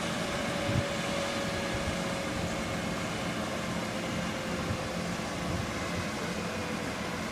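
Landed Life Star helicopter running on the ground: a steady rush of engine and rotor noise with a faint whine that slowly falls in pitch.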